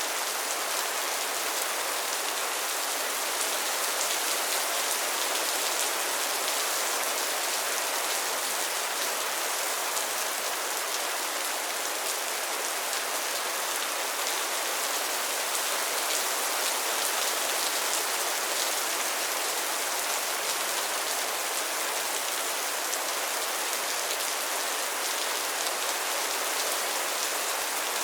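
Steady rain falling on a pond and its lily pads, a dense even patter of drops.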